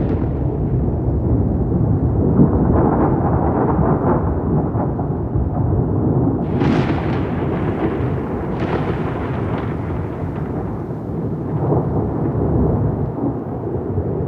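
Thunder rolling in a continuous low rumble, with two sharper cracks about six and a half and nine seconds in.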